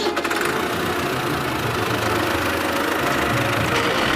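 A vehicle engine running steadily with a rough, rattling rumble.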